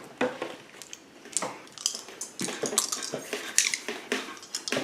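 Small plastic dice rattling and tumbling across a Monopoly board, with light clicks of the game pieces, as a player takes a turn.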